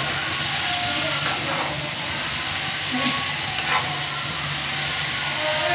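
Grated-carrot halwa sizzling steadily as it is roasted in ghee in a large metal pot, a light sizzle at the stage where the ghee separates out and the halwa is nearly ready.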